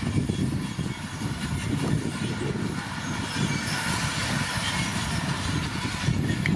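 Komatsu D41P crawler bulldozer working, its diesel engine giving a steady low rumble over the clatter of its steel tracks.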